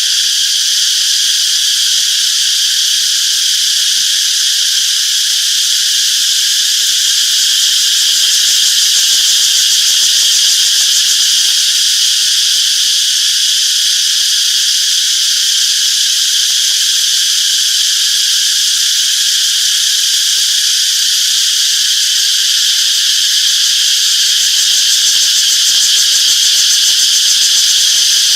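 A dense chorus of cicadas buzzing steadily: a continuous high-pitched drone that swells slightly about a third of the way in and again near the end.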